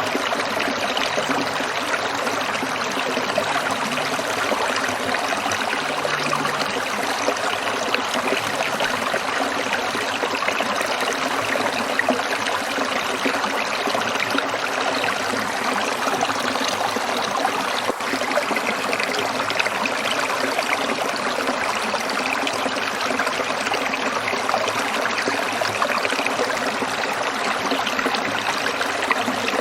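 Water trickling steadily in a stream, an even, continuous rush and burble.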